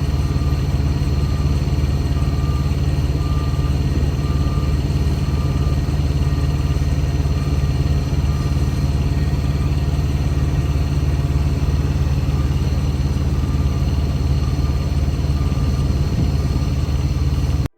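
Large diesel engine idling steadily, with a faint high beep repeating about once a second over it. The sound cuts off suddenly near the end.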